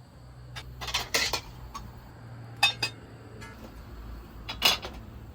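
Dishes and utensils clinking and knocking as cooking gear is handled: a cluster of knocks about a second in, a couple more with a short metallic ring in the middle, and another near the end, over a steady low hum.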